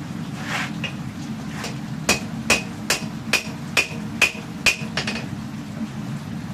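Hammer striking steel while forging a katana blade: seven sharp ringing blows about two a second, then a couple of lighter taps, over a steady low hum.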